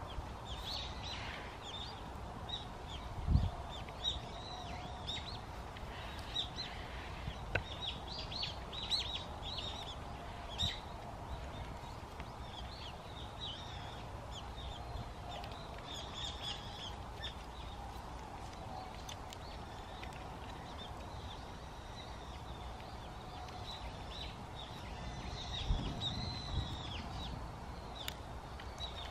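Small birds chirping in quick, short calls, repeated throughout over a steady background hiss. A single low thump comes about three seconds in, and a few soft knocks near the end.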